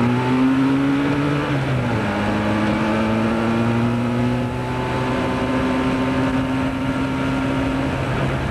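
Yamaha two-stroke motorcycle engine running under way: its note climbs slightly, drops sharply about two seconds in, then holds steady with a slow slight fall.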